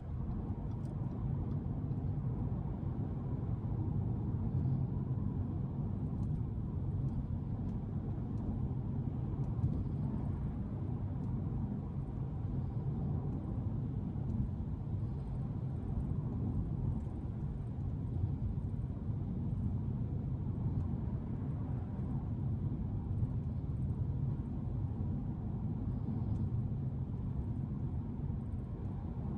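Supercharged 3.0 V6 of an Audi S5 running under steady cruising, with tyre and road noise. The result is an even low drone with no sharp revving.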